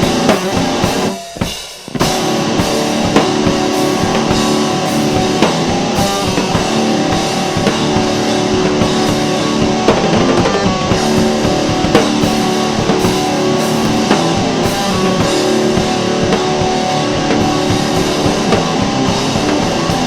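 Rock music played on drum kit and guitar, with a brief drop-out about a second in before the full band comes back.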